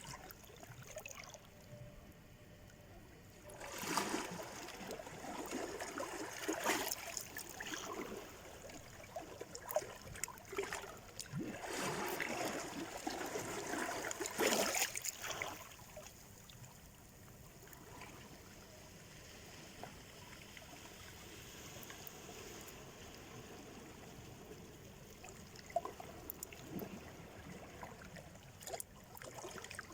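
Small sea waves washing and splashing onto the shore. A louder stretch of surf sets in about four seconds in and eases off a little past the halfway point, leaving a softer wash.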